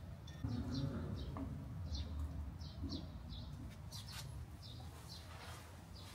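Small birds chirping: short high chirps, two or three a second, over a low background rumble.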